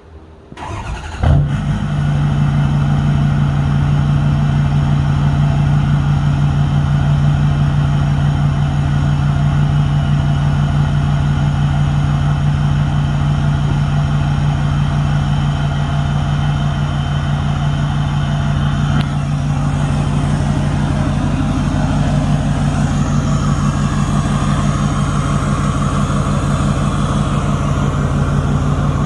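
A 2010 Ford F-250's 6.4-litre Power Stroke V8 turbodiesel cranks and catches about a second in, then idles steadily. It breathes out through a newly fitted 7-inch exhaust tip on the 4-inch exhaust, which gives a deeper note but not much more volume.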